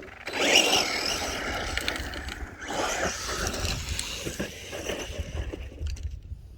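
Hobby-grade RC truck driving on the dirt track close by, its tires scraping and kicking up dirt, for about five seconds before it drops away.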